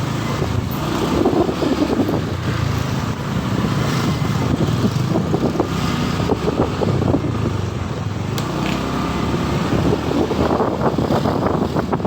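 Motorcycle riding along on the road, its engine running steadily under wind noise on the microphone, with passing traffic.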